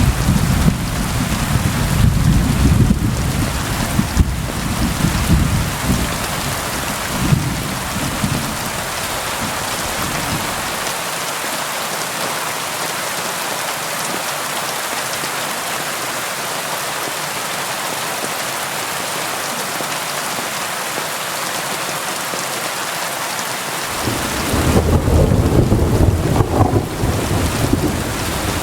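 Steady rain with rolling thunder. A long, low rumble of thunder with a few louder peaks dies away about ten seconds in, leaving rain alone, and a second rumble of thunder starts near the end.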